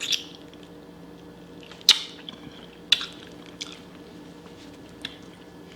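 Wet, squishy sounds of picking apart and eating a boiled blue crab, with a few sharp clicks and cracks of shell, the loudest about 2 and 3 seconds in.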